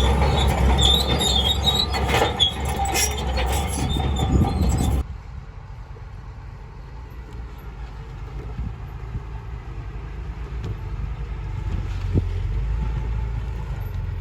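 Heavy construction machinery working: loud metallic squealing and clanking over a low engine drone, cut off suddenly about five seconds in, then a quieter, steady engine rumble.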